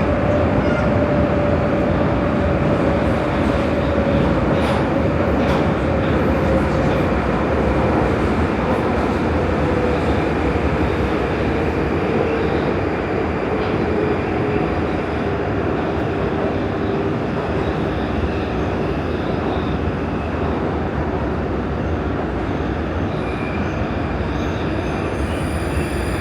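Prague metro line A train running through the tunnel: steady wheel and running rumble with a motor whine that slowly falls in pitch as the train slows. Faint high-pitched squeals set in near the end.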